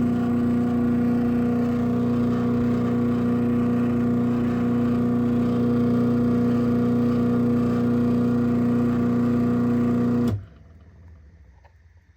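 Craftsman 139.53930DM half-horsepower chain-drive garage door opener running as it opens the door, a loud, steady motor hum. It cuts off suddenly about ten seconds in.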